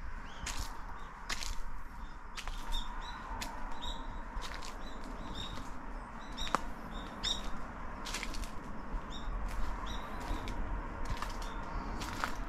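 Small birds chirping repeatedly with short, high calls, over a string of sharp, crisp ticks about once a second.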